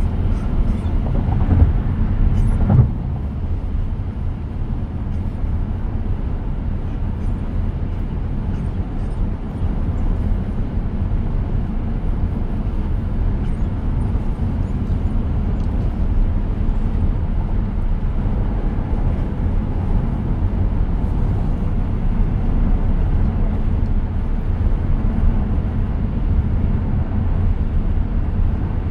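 Steady low road and tyre noise inside the cabin of a moving 2023 Tesla Model X, with no engine sound. A few brief knocks come in the first few seconds.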